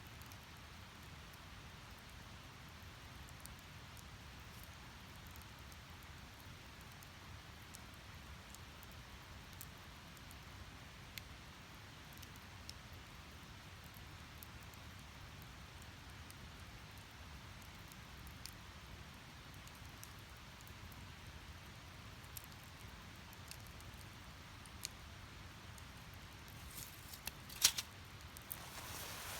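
Wood fire burning in a Snow Peak Takibidai S steel fire pit: a steady soft rush of flame with scattered sharp crackles and pops, a few louder pops near the end.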